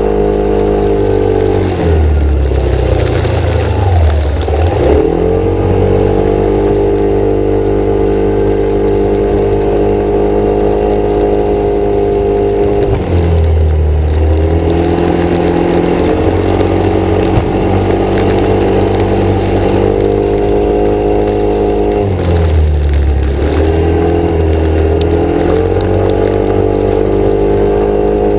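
A vehicle engine running steadily, its pitch dipping and climbing back up three times: a few seconds in, about halfway, and near the end.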